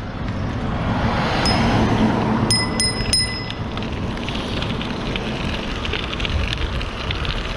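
Riding noise of a fixed-gear bicycle: a steady rush of wind and tyre rumble. Four short high pings cut through it, one about a second and a half in and three in quick succession around three seconds in.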